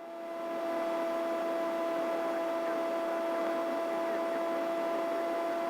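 Steady hum of a helicopter in flight heard through the crew intercom: two steady tones over an even hiss, fading in during the first second.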